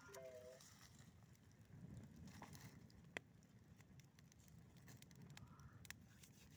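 Campfire burning quietly, with a few faint, sharp crackles and pops over near silence.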